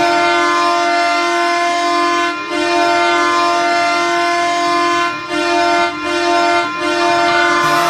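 Ottawa Senators goal horn: one long, loud, steady horn blast with a few short breaks, lasting about eight seconds and marking a goal.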